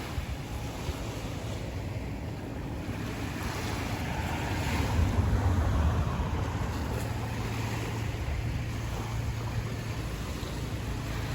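Sea waves washing onto the beach, with wind buffeting the microphone; the surf swells louder about four to six seconds in. A low steady hum runs underneath.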